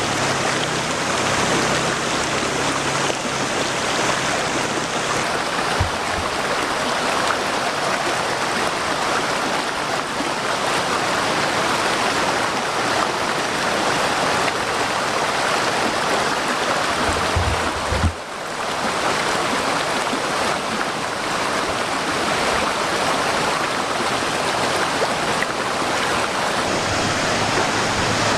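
Small waterfall: water rushing and splashing steadily over rocks, with a brief dip about two-thirds of the way through.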